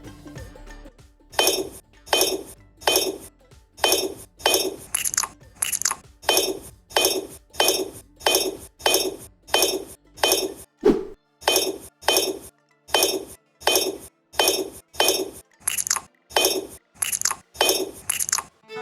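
Sharp metallic clinks struck evenly about twice a second, each ringing briefly.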